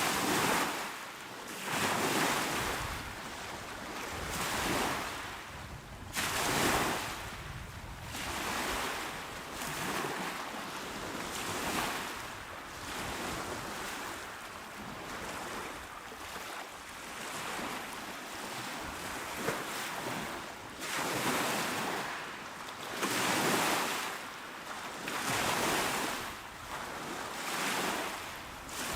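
Small, calm sea waves washing onto a shore, a soft rushing swell every two to three seconds that breaks and drains away.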